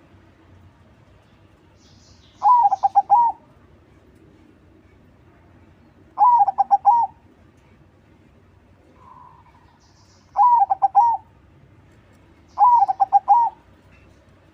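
Perkutut crossing (crossbred zebra dove) singing: four song phrases about four seconds apart, each a quick run of rolling coos ending on a higher note.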